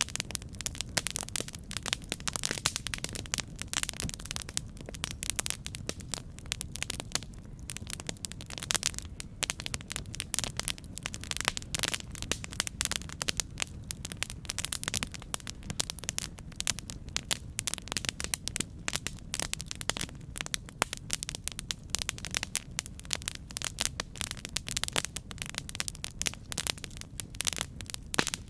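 Campfire burning, with a dense run of sharp, irregular crackles and pops over a steady low rumble of the flames.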